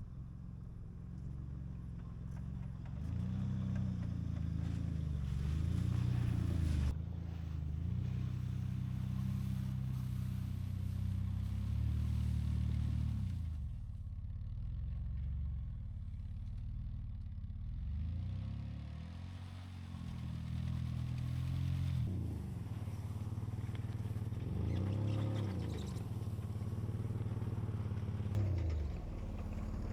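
A motor vehicle's engine running, its pitch repeatedly rising and falling as it speeds up and slows down.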